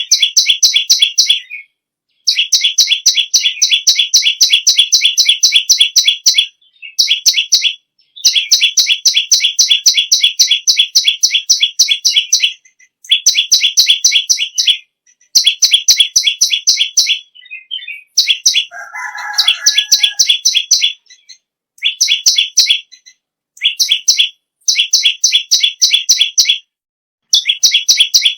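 Perenjak lumut (perenjak bawah) singing in repeated bursts of a fast, high rattling trill, each burst lasting one to five seconds with short breaks between. About two-thirds of the way through, a brief lower call sounds once.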